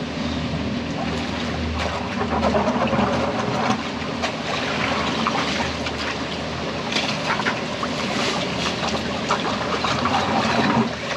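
Steady rush of running water and rain in a thunderstorm, with scattered knocks and clicks.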